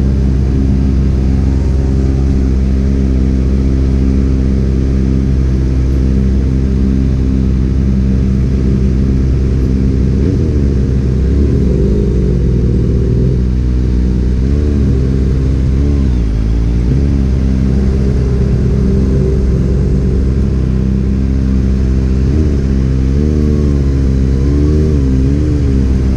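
Motorcycle engine running steadily under way, its pitch rising and falling a few times around the middle and again near the end.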